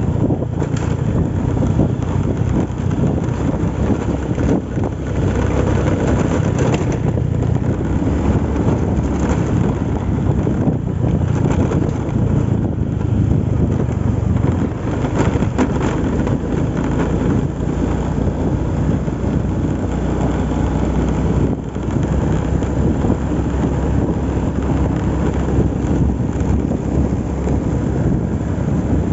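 Loud, steady wind buffeting the microphone over a low rumble.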